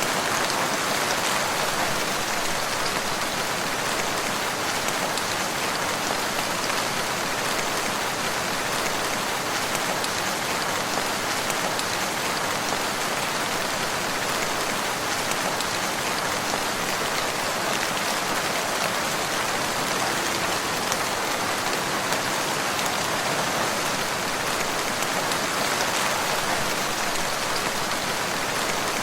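Steady rain falling on surfaces, an even hiss of many drops that holds constant throughout.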